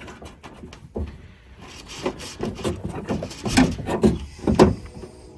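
A replacement window regulator being worked onto its bolts inside a 1998 Dodge Ram 1500 door: irregular metal clicks, knocks and rubbing, the loudest knocks a little past halfway, as the part is pushed into place to sit evenly.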